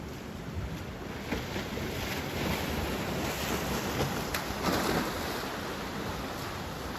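Ocean surf: a wave breaking and washing up the beach, swelling over a few seconds and then easing off, with wind rumbling on the microphone.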